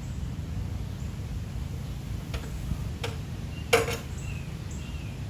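Three sharp clicks and knocks, the third the loudest, as parts of a push mower are handled, over a low steady rumble. A few faint high chirps come near the end.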